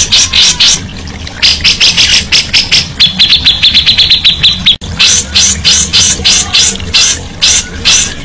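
Cucak jenggot (grey-cheeked bulbul) singing a fast chattering song of sharp repeated notes, with a quick even trill a little before the middle, over a steady low hum.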